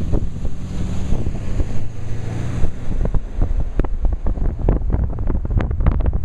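Strong wind buffeting the microphone of a camera held at the window of a moving car, in rough, irregular gusts. A steady low hum sits under the wind for the first half, then drops away.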